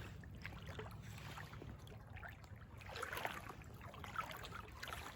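Faint river water flowing and lapping, with scattered small splashes and trickles, a few of them clustered about halfway through.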